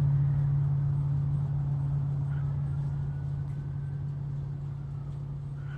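A steady low mechanical hum with a rumble beneath it, slowly growing quieter.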